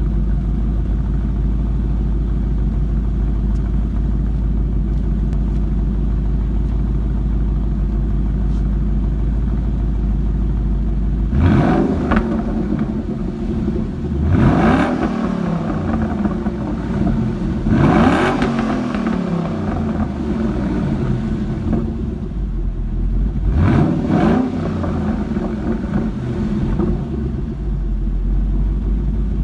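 2012 Ford Mustang Boss 302's 5.0 L V8 exhaust, running on its track-key calibration. It idles steadily, then from about eleven seconds in is blipped in several quick free revs, each rising sharply and falling back to idle.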